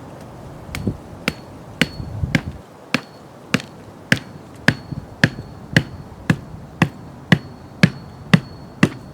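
Steady hammering: about sixteen sharp blows at roughly two a second, many leaving a faint high metallic ring.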